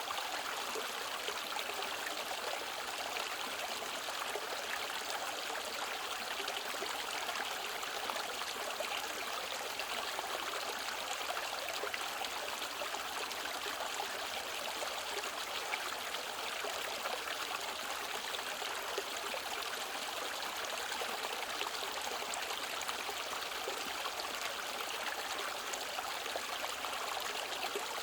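Mountain stream flowing and trickling over rocks, a steady even rush of water.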